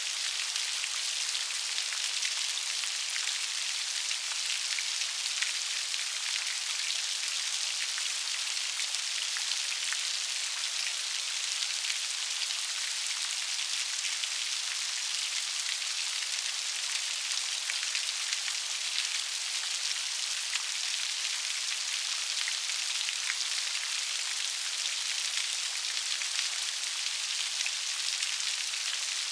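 Steady rain falling, a dense even hiss of raindrops with fine individual drop ticks, high in pitch and with little low rumble.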